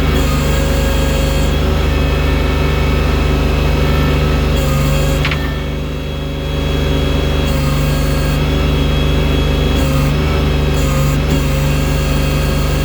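Engine of a loader moving snow with its bucket, running steadily, easing off briefly about halfway through and then picking back up.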